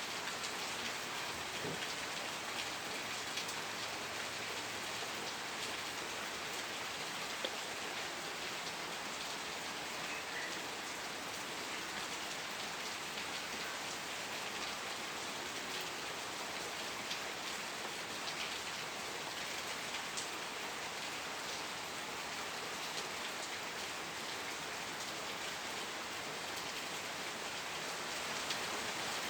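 Steady rain falling and pattering on a surface, an even hiss with many small drop ticks and no thunder.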